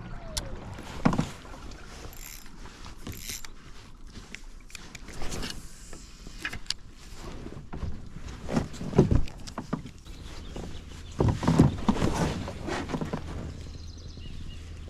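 Water splashing and irregular knocks and bumps on a fishing kayak, with louder clusters about nine and twelve seconds in.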